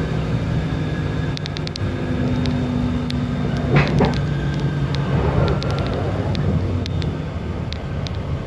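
Interior of a moving passenger train on a non-electrified line: steady diesel engine hum and rolling noise, with scattered light clicks and rattles. One louder knock comes about four seconds in.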